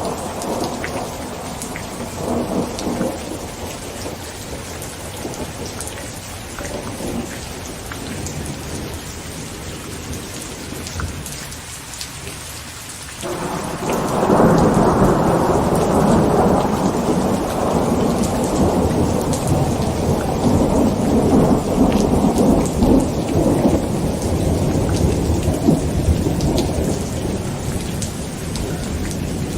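Heavy rain falling on a tent, with rolling thunder. A rumble fades over the first few seconds, and a new long peal of thunder breaks in suddenly about halfway through and rumbles on until near the end.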